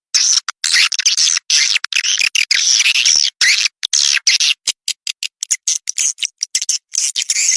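Small songbirds chirping and twittering in a dense, high-pitched chatter, with the sound cutting out to silence many times for split seconds.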